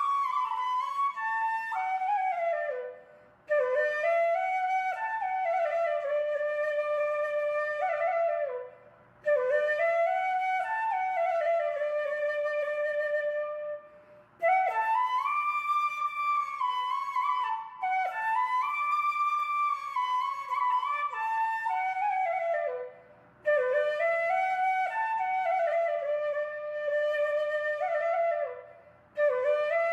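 Background music: a solo flute playing a slow melody in phrases of a few seconds, with short breaks between them.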